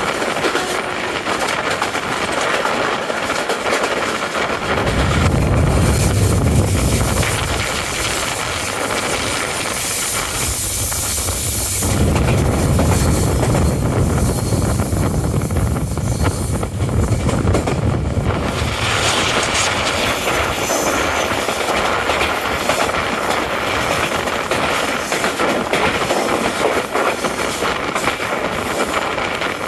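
Passenger express train running along the track: the steady rumble and rattle of the coaches. A louder, deeper rumble comes in from about five seconds in until about eighteen seconds in.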